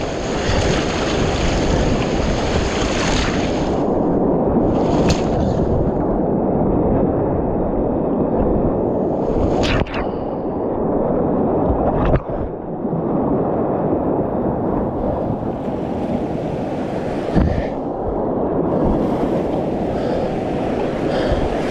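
Whitewater creek rapids rushing around a kayak, a steady loud roar of moving water, with a few sharp splashes spaced through it.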